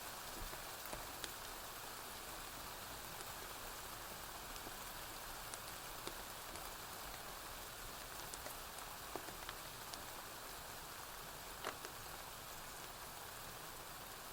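Steady rain falling on a roof, with scattered sharp pops and clicks from a crackling wood fire. The loudest pop comes a little past two-thirds of the way in.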